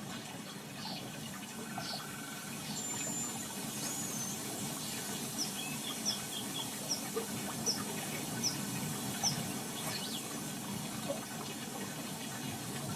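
Steady rush of water with a small bird calling over it: six short, high chirps in an even series through the middle, plus a few softer chirps and a brief whistle.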